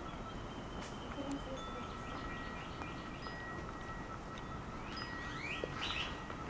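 Small birds chirping in short high calls, with a quick run of rising chirps near the end, over a faint steady ringing tone.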